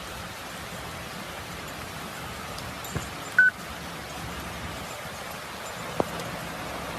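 Steady, even hiss of falling or running water, with one short high beep about three and a half seconds in and two faint clicks.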